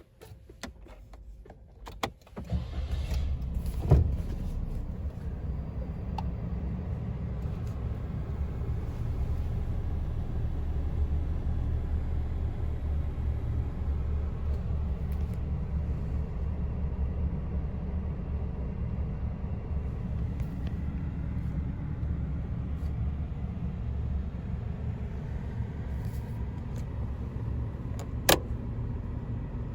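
Suzuki Hustler's three-cylinder 660 cc kei-car engine starting about two seconds in, then idling steadily. A sharp click near the end.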